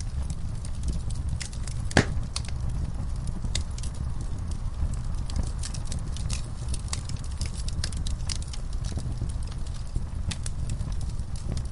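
Wood fire crackling in a fireplace: a steady low rumble of flame with scattered sharp snaps and pops, and one louder pop about two seconds in.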